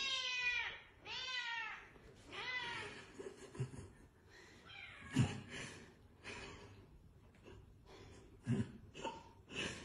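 Domestic cat meowing three times in the first three seconds, each meow rising and falling in pitch and lasting under a second, followed by quieter short sounds and a few soft knocks.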